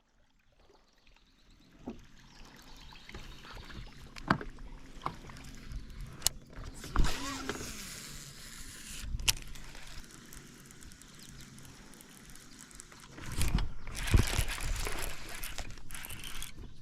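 Handling sounds on a fishing boat: scattered knocks and clicks over a faint steady low hum, with a louder rushing noise for about three seconds near the end.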